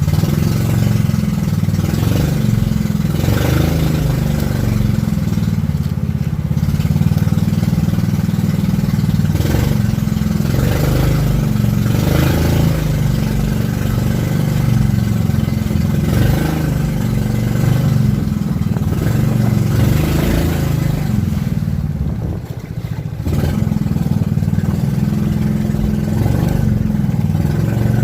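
Motorboat engine running steadily with a low drone, with louder rushing noises every few seconds.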